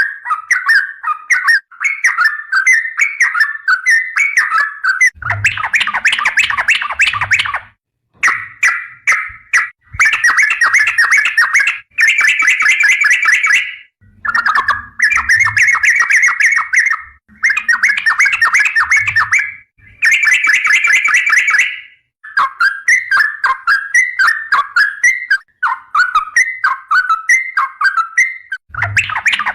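Yellow-vented bulbul (trucukan) singing loud, rapid, bubbly chattering phrases in runs of a few seconds, with short silent breaks between runs.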